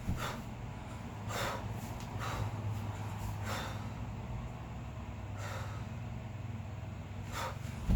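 A kettlebell lifter's sharp, forceful breaths, one every second or two, paced to the reps of a double 16 kg kettlebell long cycle. A dull thud at the start and another just before the end, over a low steady hum.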